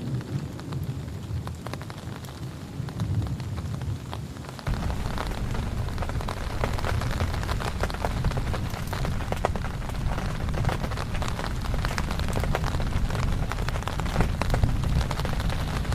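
Heavy rain falling, a dense patter full of separate drop ticks, as the last of a thunder rumble dies away at the start. About five seconds in the rain suddenly grows louder and heavier.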